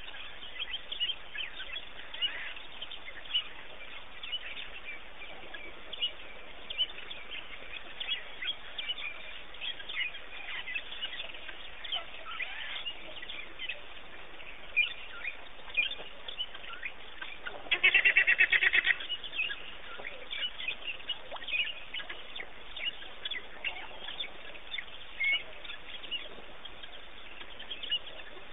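Wild birds chirping in short, scattered calls. A little over halfway through comes a loud, rapid run of about ten pulsed calls lasting about a second.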